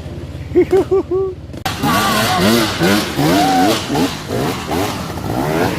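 Motocross motorcycle engines revving, rising and falling in pitch over and over, loud from about a second and a half in after a few short throttle blips.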